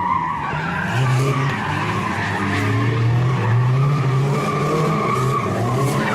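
Car engine revving up and down with tyres squealing in a continuous skid, as in a drift or a slide.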